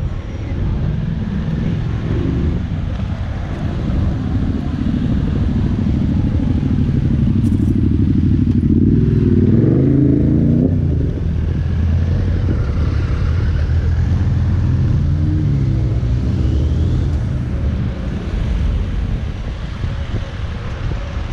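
Motorcycle and traffic engines running close by, one revving up and passing about halfway through, another rising in pitch a few seconds later.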